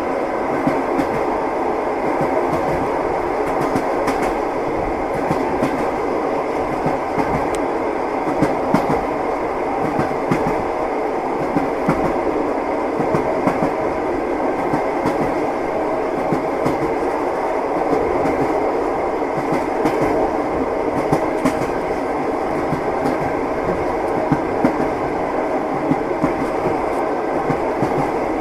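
Moving train: a steady rumble of the rolling carriage with the wheels knocking over the rail joints in recurring clicks.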